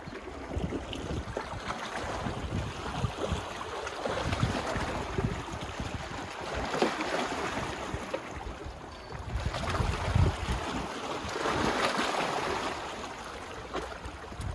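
Small sea waves washing on a beach, the wash swelling and ebbing every few seconds, with wind buffeting the microphone.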